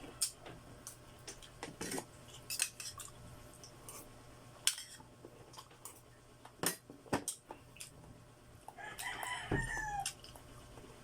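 Scattered clicks and taps of eating with utensils and dishes, and a rooster crowing in the background about nine seconds in, its call dropping in pitch at the end.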